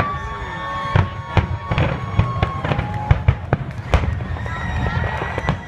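Aerial fireworks shells bursting in quick succession: about a dozen sharp bangs with crackling between them.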